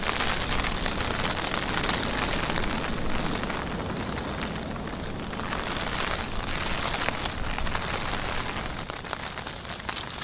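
Heavy rain falling steadily. Over it come short, rapid, high-pitched trills, each lasting about a second and repeating every second or so.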